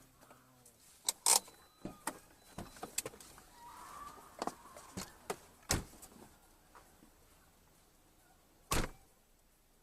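A series of irregular sharp clicks and knocks, about a dozen, with a few louder knocks and one near the end.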